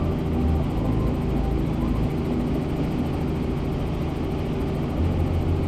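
Helicopter in flight, heard from inside the cabin: the steady drone of its engine and rotor, swelling slightly near the end.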